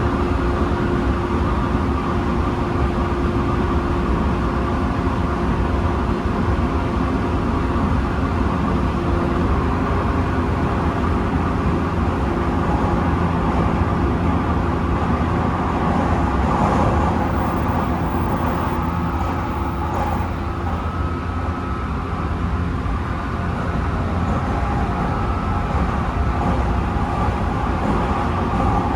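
Tsukuba Express electric commuter train running at speed, heard from inside the passenger car: a steady rumble of wheels on rail with a few held whining tones from the traction motors.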